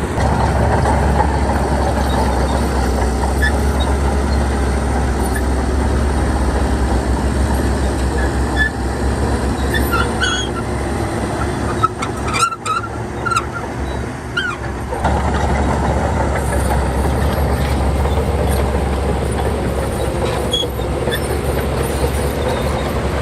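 Heavy diesel earthmoving machinery running steadily with a deep low drone, broken by a brief dropout about halfway through. Short squeaks and clinks of metal come through in the middle stretch.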